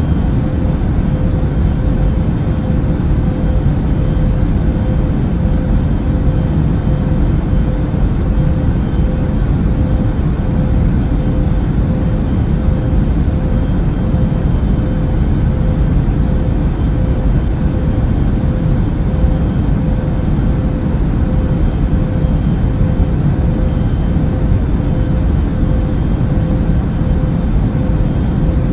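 Steady in-flight cabin noise of an Airbus A380 airliner: an even, deep rumble of engines and airflow with a faint steady hum running through it.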